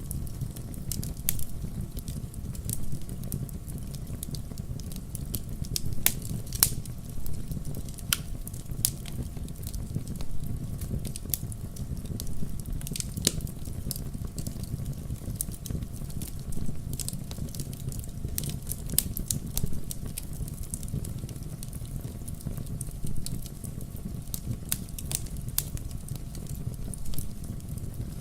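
Fire burning in a fireplace, crackling with frequent irregular sharp pops and snaps over a steady low rumble.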